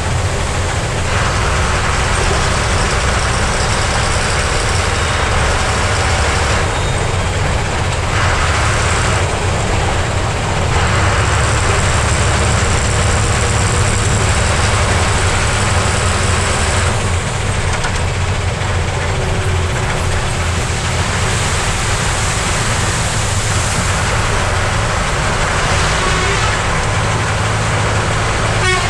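Heavy truck's diesel engine running under load on a steep hill road, with road and wind noise that swells and eases in stretches of several seconds.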